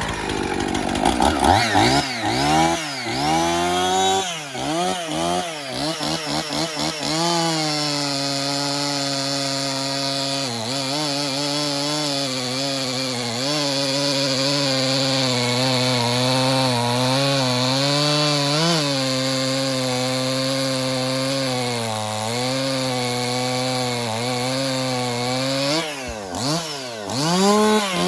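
Husqvarna 55 two-stroke chainsaw revved up and down several times, then held at steady high revs while cutting wood, the pitch wavering slightly under load. Near the end the revs drop away briefly and climb back up.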